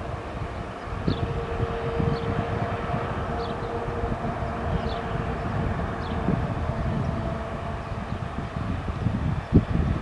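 A 2TE116 diesel locomotive's 5D49 diesel engines working under load on an upgrade: a dense, steady low rumble with a held tone over it. A sharp knock stands out near the end.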